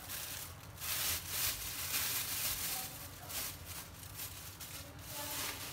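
Garlic and ginger frying in a little hot oil in a stainless steel pot: a crackling sizzle that grows louder about a second in.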